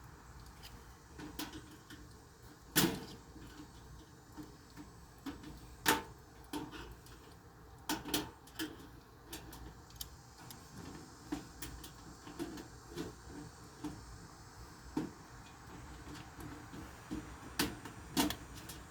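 Irregular knocks and clicks of objects being handled, with louder knocks about 3, 6 and 8 seconds in.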